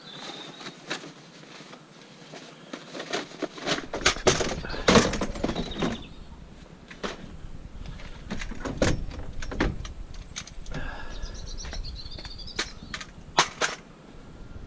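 Pieces of scrap metal being handled and sorted: a series of clanks, knocks and rattles, loudest about four to five seconds in, with a few more sharp knocks later.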